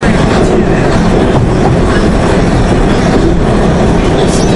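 Beijing subway train running along the track, a loud steady rumble of wheels and carriage heard from inside the front car.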